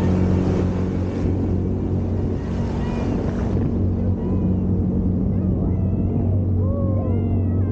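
Motor of an Aquanami JetAngler Pro jet kayak running at a steady speed with a low hum, over the rush of water along the hull.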